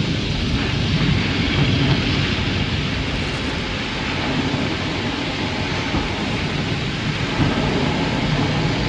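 Automatic car wash heard from inside the car's cabin: a steady, dense rumble of water spraying and drumming on the body and windows.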